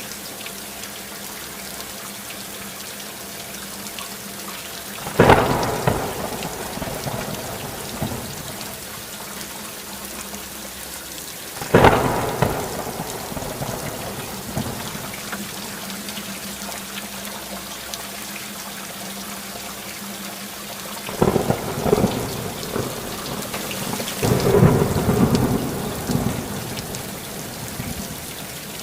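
Steady rainfall with thunder: sudden claps about five and twelve seconds in, then a longer peal of thunder from about twenty-one to twenty-six seconds.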